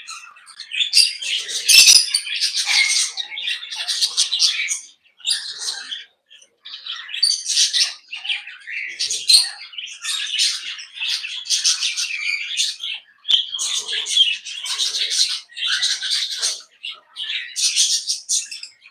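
A flock of small aviary parrots chirping, chattering and squawking together in busy clumps of a second or two with short pauses between.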